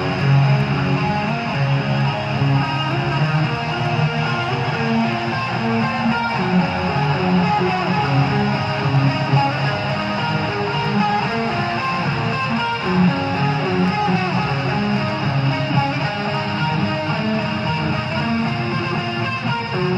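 Live heavy metal band music: electric guitar playing slow, held melodic notes over bass.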